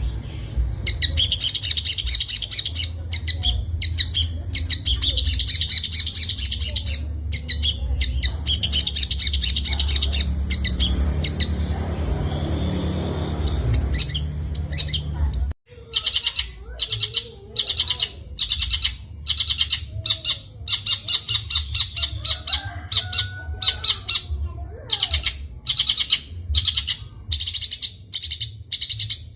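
Long-tailed shrike singing a rapid, chattering song packed with mimicked calls of other birds. About halfway through, the recording cuts abruptly, and afterwards the song comes in quick separate phrases. A low hum runs under the first half.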